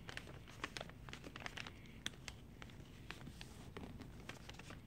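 Sheet of paper crinkling and rustling in the hands as a paper airplane's wing is folded and creased: a run of small crackles, thickest in the first couple of seconds and sparser after.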